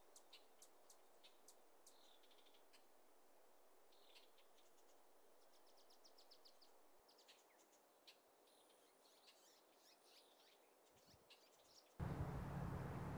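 Faint birds chirping in quiet open air, in short scattered calls with a quick trill about five seconds in. Near the end it cuts suddenly to a louder, steady roadside noise.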